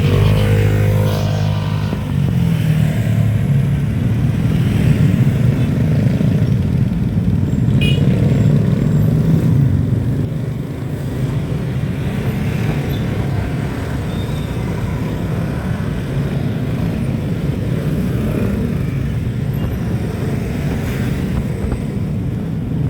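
Steady low road and wind noise of a ride in traffic, with a vehicle engine rising in pitch in the first second or two.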